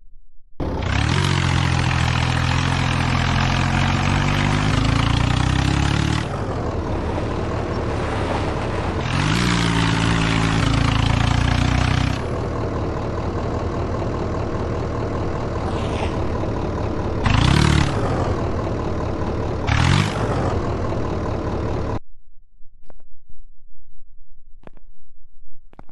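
Tractor diesel engine revving hard under load, with pitch rising and falling. It is loudest in two long stretches, from about a second in to six seconds and again from nine to twelve, with two short sharp revs near seventeen and twenty seconds, then it cuts off suddenly.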